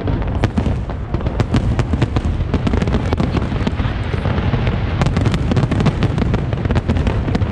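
A fireworks display: rapid, overlapping bangs and crackles of aerial shells bursting, several a second, over a continuous rumble.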